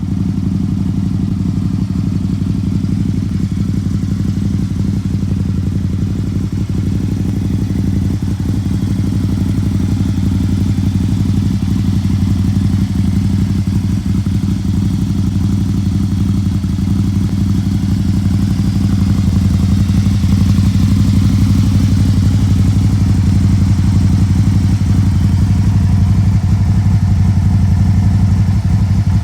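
Can-Am Spyder RS-S's Rotax V-twin engine running steadily at idle through an aftermarket Yoshimura exhaust, a low, even exhaust note with no revving.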